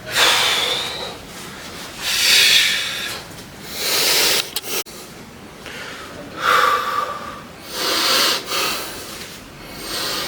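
A person breathing hard from weight-training exertion: loud, airy breaths come about every couple of seconds.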